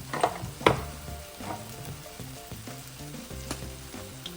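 Ground beef frying in a skillet, sizzling steadily, with a few sharp clicks, the loudest just under a second in.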